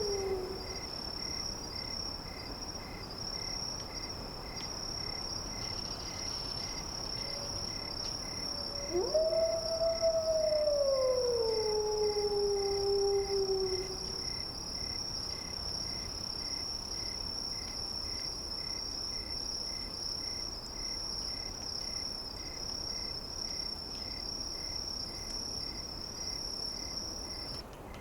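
A wolf howling: the end of one howl sliding down in the first second, then a long howl about 9 s in that rises sharply, holds and slides down over about five seconds. Under it runs a steady high-pitched insect drone like crickets, with a faint pulse about twice a second, which cuts off just before the end.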